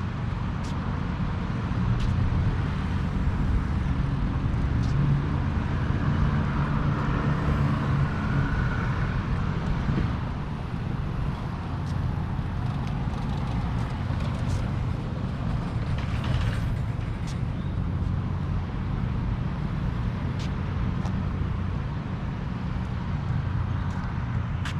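Steady city road traffic noise, a dense rumble that swells louder for several seconds a couple of seconds in, then settles back.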